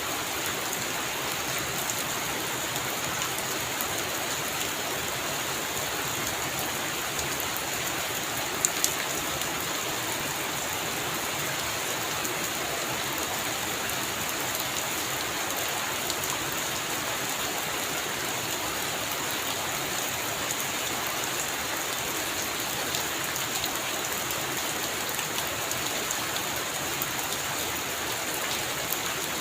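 Heavy rain falling steadily on a roof, an even hiss with no let-up. Two sharp drip taps come close together about nine seconds in.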